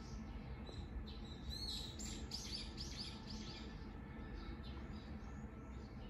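A small bird singing outdoors: runs of short, high chirping notes, about three a second, over a low steady background noise.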